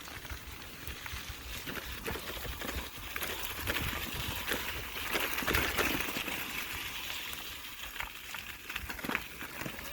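Electric mountain bike riding over a rough trail: tyres crunching and rattling over the ground with irregular knocks, and wind rumbling on the microphone. The noise swells for a few seconds in the middle.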